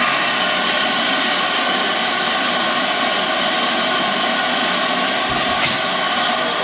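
Steam locomotive letting off steam: a loud, steady hiss that starts suddenly.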